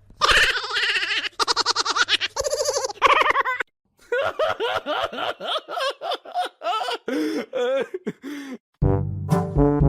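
A person laughing in rapid, high-pitched bursts, breaking off twice. Brass music starts near the end.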